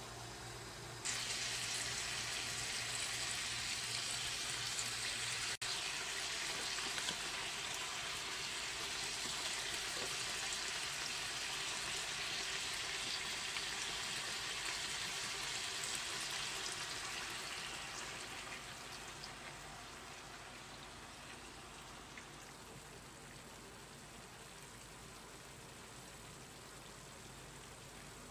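Pork belly sizzling as it fries in a pan, a steady crackling hiss. It starts abruptly about a second in and dies down gradually from around two-thirds of the way through.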